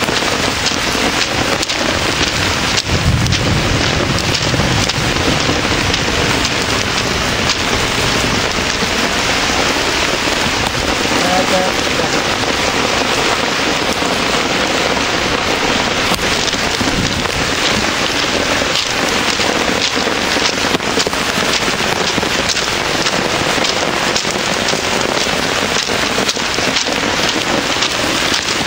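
Heavy downpour of rain pattering steadily and densely, with a brief low rumble about three seconds in.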